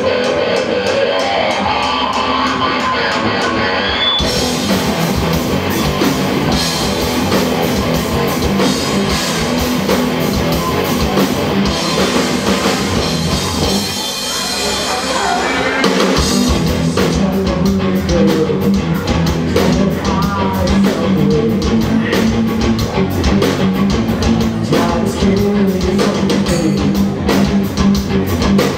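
Live rock band playing loud, with distorted electric guitar and drum kit; the band drops back for a moment about halfway through, then comes in again harder with a driving beat.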